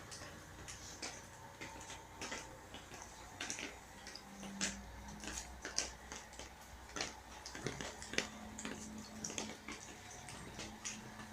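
Irregular drips and taps of rainwater, several a second, from rain leaking through a damaged roof. A low steady hum comes in about two-thirds of the way through.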